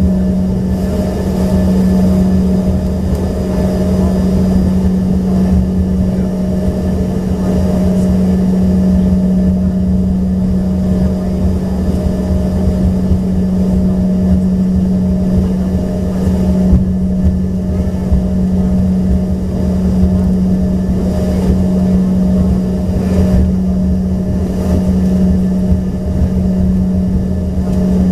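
Steady cabin drone of the Embraer ERJ-145XR's rear-mounted Rolls-Royce AE 3007 turbofan engines running at low power, a loud unchanging hum with a low rumble beneath.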